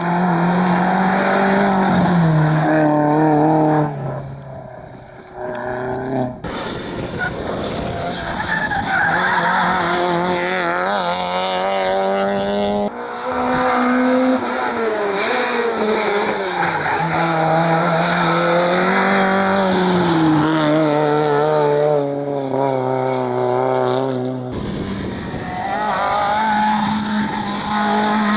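Rally car engines revving hard, their pitch climbing and dropping with each gear change and lift, cut abruptly between several cars about 6, 13 and 24 seconds in.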